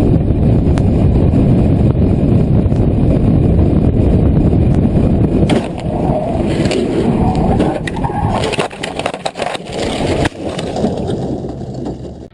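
Loud, steady rumbling vehicle noise, low and noisy. From about halfway through it turns uneven, with a run of sharp knocks and clatters, then cuts off abruptly.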